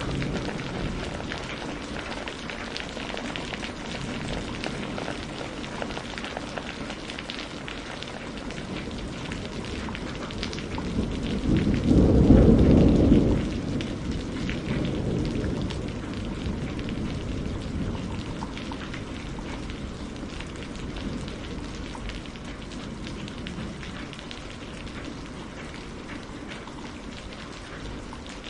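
Steady rain falling, with fine pattering drops, and a roll of thunder rising about eleven seconds in, loudest for a couple of seconds, then fading away.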